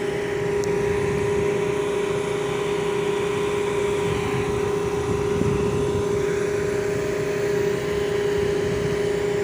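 Putzmeister concrete pump running steadily: a constant machine hum with a strong, even whine over a rough low rumble.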